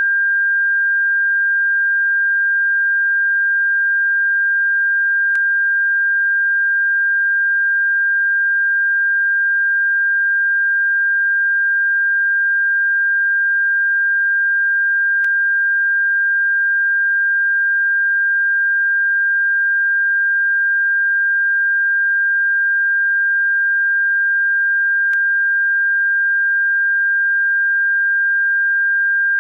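Steady pure electronic tone, one unchanging high pitch, played as a bird-repellent sound. A faint click breaks in about every ten seconds.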